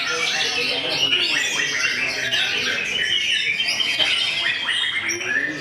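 White-rumped shama (murai batu) singing a fast, varied song of whistles and chattering notes, with other caged songbirds singing over it.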